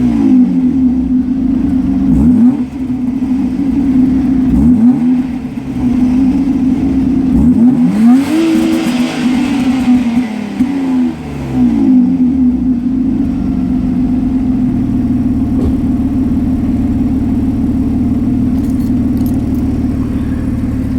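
BMW E36 320i's 2.0-litre M50B20 inline-six on its stock exhaust, blipped several times, each rev rising and falling back. About 13 seconds in it settles into a steady idle.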